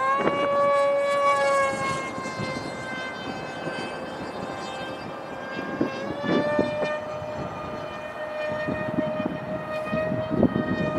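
Electric brushless motor and propeller of a Stryker RC flying wing in flight, a high whine that sags slowly in pitch, then climbs and holds steady from about six seconds in. Gusty wind noise on the microphone runs underneath.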